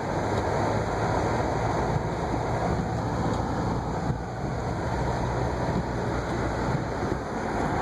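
A car driving on snowy city streets: a steady low engine hum under even tyre and road noise.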